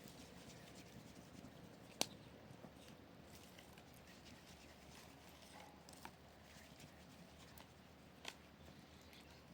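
Near silence: faint outdoor ambience, broken by one sharp click about two seconds in and two fainter knocks later.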